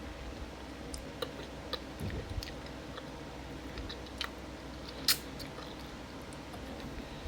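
Close-up chewing of soft sugar apple pulp: scattered wet mouth clicks and smacks, the loudest about five seconds in.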